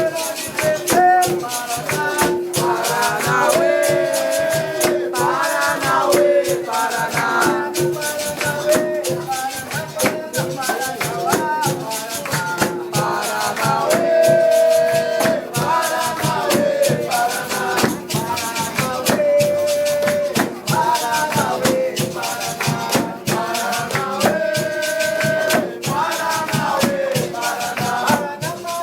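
Capoeira music: singing over a fast, steady shaker rattle, with a note repeating low underneath.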